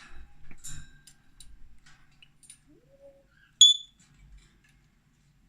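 African grey parrot making small clicks and scratchy sounds, with a short low rising whistle around three seconds in, then one sharp high-pitched chirp, the loudest sound.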